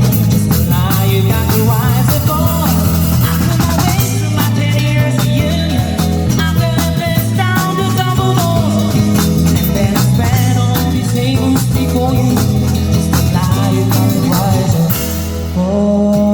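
Live rock band of electric guitar, bass and drum kit playing the song's instrumental close. The drums stop near the end, leaving a held chord ringing.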